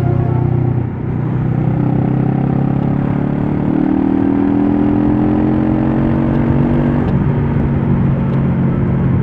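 Honda Rebel 500's parallel-twin engine pulling under throttle. A brief dip about a second in, like a gear change, is followed by a steadily rising note until about seven seconds in, when the pitch drops to a lower steady run.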